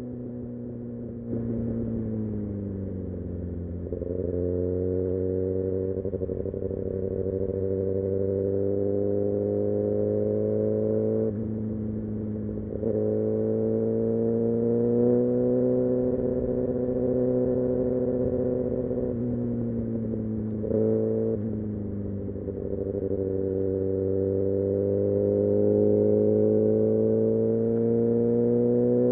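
Kawasaki Ninja ZX6R's inline-four engine and exhaust under way, its pitch climbing steadily as the bike accelerates, with brief breaks and a drop in pitch at each upshift, about eleven and twenty-one seconds in.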